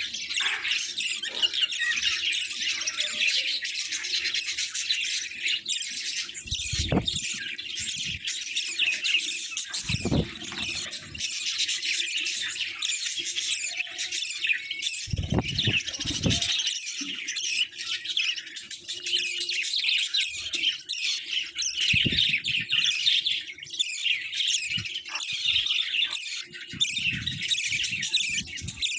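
A flock of budgerigars chirping and chattering without pause, with a few short low thumps scattered through.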